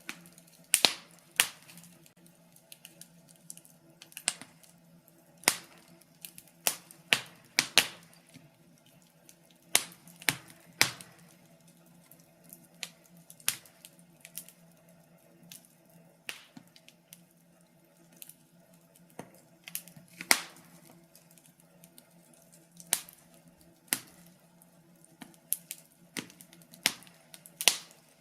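Wood fire in a fireplace crackling: irregular sharp pops and snaps from the burning logs, some in quick clusters, over a faint steady low hum.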